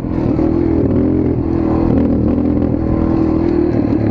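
Dirt bike engine running under throttle, its pitch wavering up and down as the rider rolls the throttle on and off.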